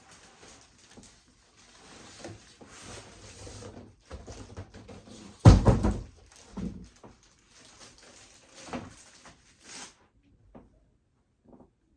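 Rustling and handling of the packaging around a sewing machine being unboxed, with one loud thump about halfway through; the rustling stops a couple of seconds before the end, leaving a few small clicks.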